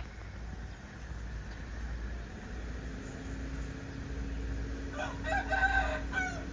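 A rooster crows once, about five seconds in, over a steady low rumble and a low hum that sets in about two seconds in, most likely from the approaching diesel train.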